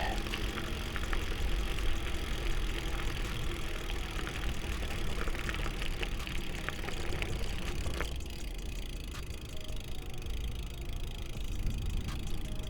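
Steady low rumble of wind and rolling noise while riding a bicycle, with a few faint clicks.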